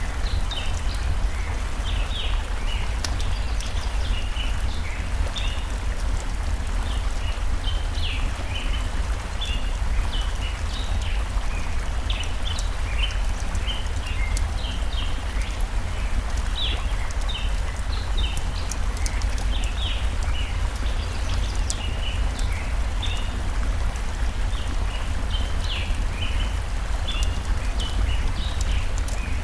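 Steady running stream water under continual short, high bird chirps, several a second, with scattered sharp pops of a crackling campfire.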